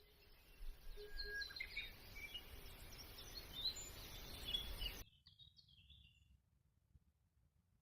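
Forest birds chirping and singing, many short high notes, over a steady outdoor hiss. About five seconds in the hiss cuts off abruptly, a few faint chirps follow, then near silence.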